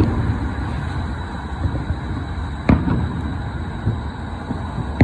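Firework shells bursting in the distance: a sharp boom about halfway through and another at the very end, over a steady rumble of traffic.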